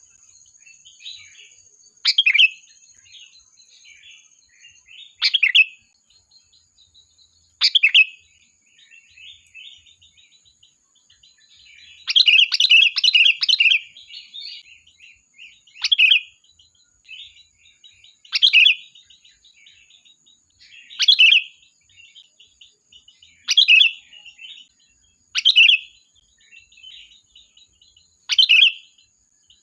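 Sooty-headed bulbul (kutilang) calling: loud short calls about every two to three seconds, with softer chattering between them and a longer run of quick calls near the middle. A faint steady high tone runs underneath.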